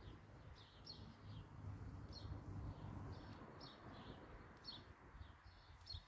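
A small bird chirping over and over, short high falling notes about twice a second, faint, over a low rumble.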